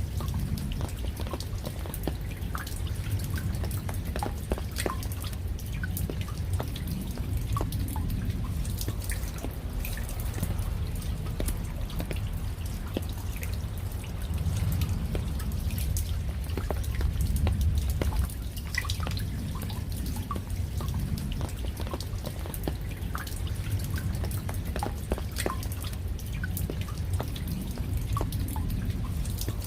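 Rain falling, with many separate drops ticking irregularly over a steady low rumble.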